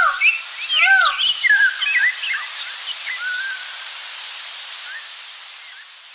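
Many birds chirping and calling over one another, with two louder arched calls at the start and about a second in; the calls thin out after a couple of seconds over a steady hiss that fades toward the end.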